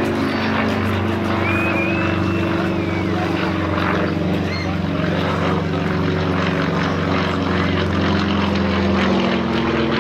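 Propeller aircraft flying past with a steady engine drone whose pitch sags slightly near the end.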